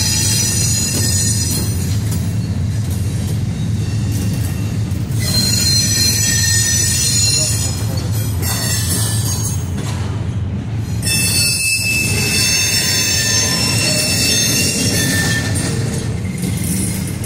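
Double-stack intermodal freight cars rolling past: a steady low rumble of wheels on rail, with high-pitched wheel squeal that comes and goes in several stretches.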